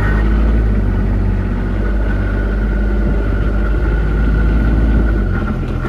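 A motor vehicle's engine running with a deep, steady rumble and a thin steady whine above it, easing off near the end.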